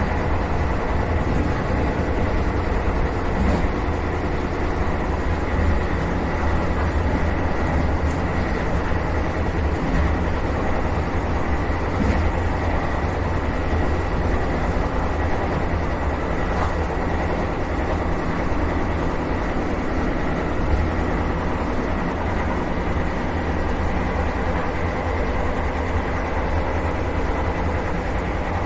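Vande Bharat Express electric multiple unit running, heard inside the driver's cab: a steady low rumble from the running train with a thin, steady high whine over it and a few faint clicks.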